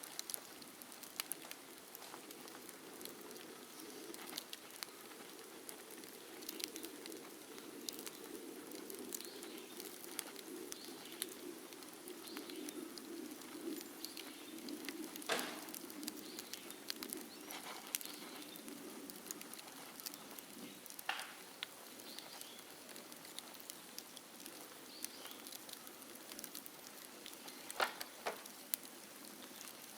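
Bonfire of dead bamboo crackling, with scattered sharp pops and a few louder cracks. A low rumble sits under the first two thirds and then fades.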